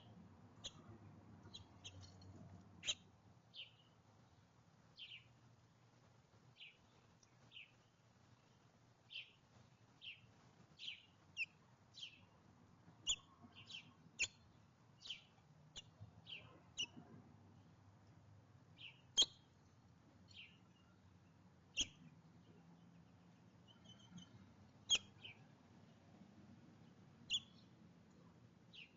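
Small songbirds chirping: short, high chirps repeated roughly once a second, with a few sharp clicks among them.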